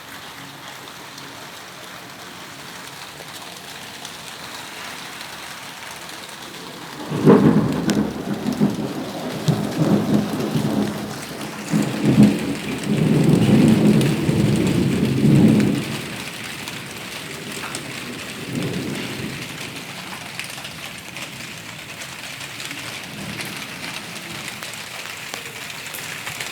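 Thunderstorm: steady rain hissing, then about seven seconds in a loud clap of thunder that rolls on in waves of low rumbling for about nine seconds, with a fainter rumble a little later.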